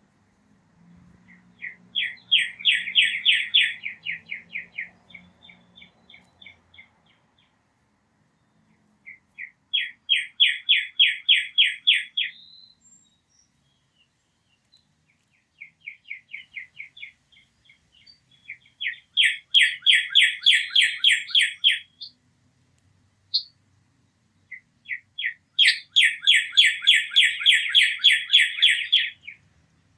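A songbird singing: five rapid trills of evenly spaced, high notes, each lasting two to four seconds with short pauses between, and a single short call between the fourth and fifth trills.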